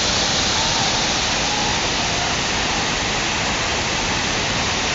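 Tall waterfall: falling water rushing in a steady, even roar of white noise.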